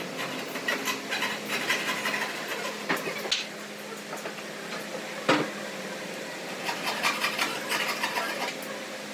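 Irregular knocks, clinks and scraping from hand work with tools, over a steady low hum, with one sharper knock about five seconds in.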